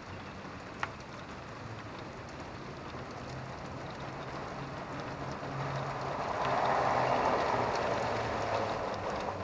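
Steady rain falling, an even hiss with a faint low hum under it. A single sharp tick comes about a second in, and a broader rushing sound swells up about six seconds in and eases off near the end.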